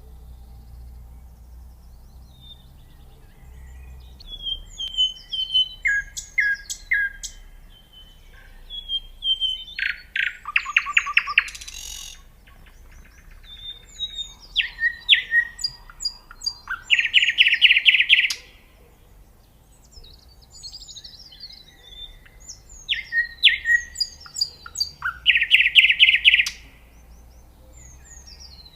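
Nightingale singing in four separate phrases with short pauses between them: whistled notes and quick sweeps, with loud fast runs of repeated notes in the later phrases. A faint low rumble lies underneath.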